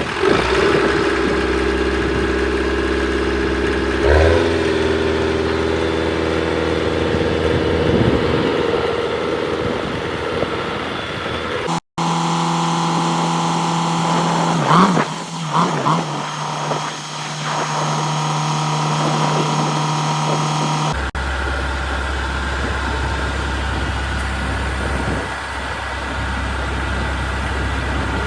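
A vehicle engine running steadily at idle, its sound changing abruptly about 12 seconds in and again about 21 seconds in.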